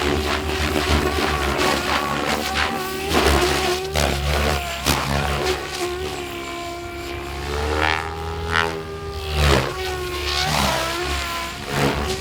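Goblin 700 electric radio-controlled helicopter flying aerobatics: the rotors and motor whine continuously, their pitch sliding up and down again and again, with sharp bursts of blade noise as it maneuvers.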